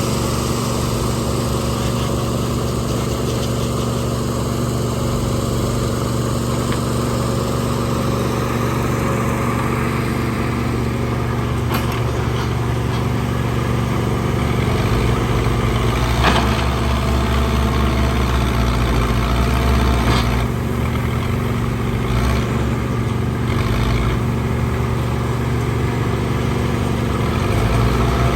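Backhoe loader's diesel engine running steadily, its low note growing louder at times as it works. A few sharp knocks come through around the middle.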